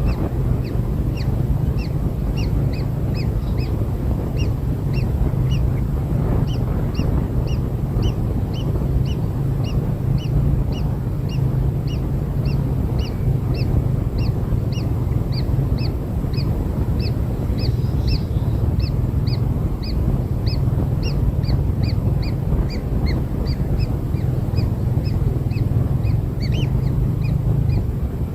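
Kingfisher chicks calling: short, high, slightly falling chirps repeated at about two to three a second without a break, over a loud, steady low rumble.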